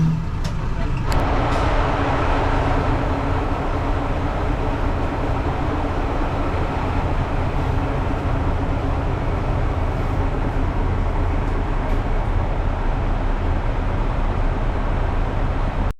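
Train running: a steady low rumble with running noise that swells about a second in after a few sharp clicks, holding steady until it cuts off suddenly.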